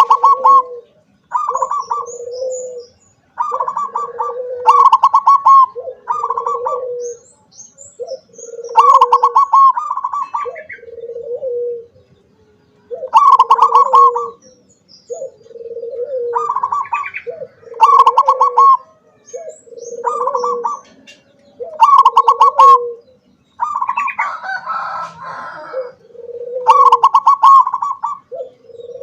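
Zebra dove (perkutut) singing its cooing song over and over. Each phrase is a quick bubbling trill over lower coos, coming every two seconds or so, with faint high chirps above.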